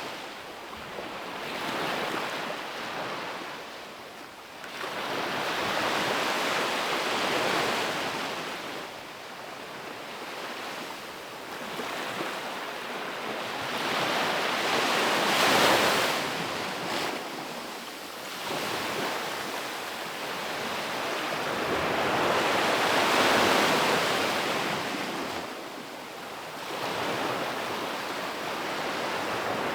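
Ocean waves breaking on a beach and washing up the shore, the surf swelling and fading in slow surges every few seconds, the strongest about halfway through. There is a little wind on the microphone.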